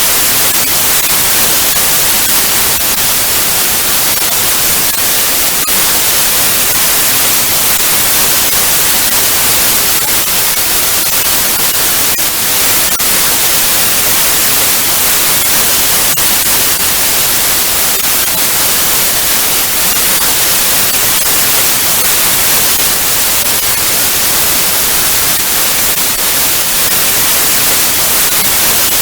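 Television static: a steady, loud hiss of white noise with faint crackles through it, strongest in the high end.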